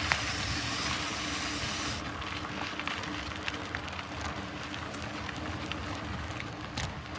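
Mountain bike rolling along a dirt trail: steady tyre and riding noise with scattered small ticks.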